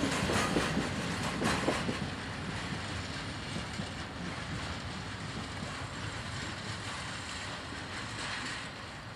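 Freight train wagons rolling past on the rails, wheels clicking over rail joints in the first two seconds. Then a steady rumble that fades as the train draws away.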